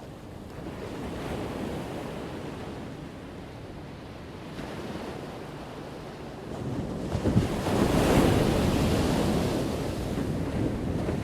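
Ocean waves breaking on the shore: a small wave swells and fades early, then a bigger wave crashes about seven seconds in and washes out slowly.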